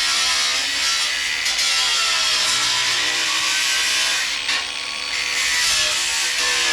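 Power tool cutting or grinding sheet steel, a dense grinding noise whose motor pitch rises and falls as it loads up, easing off briefly about two-thirds of the way through.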